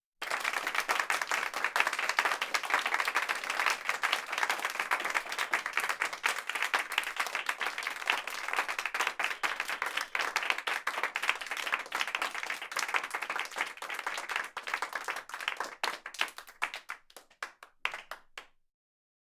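Applause: many hands clapping in a dense, even patter that thins out into a few scattered claps near the end and then stops.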